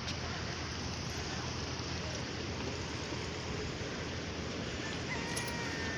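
Steady rush of sea surf, with wind on the microphone.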